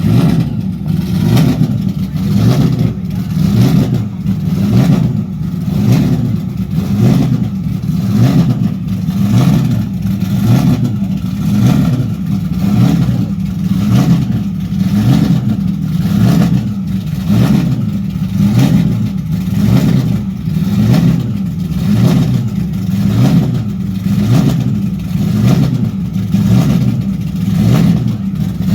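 Car engine revved over and over in a steady rhythm, the pitch rising and falling about once a second.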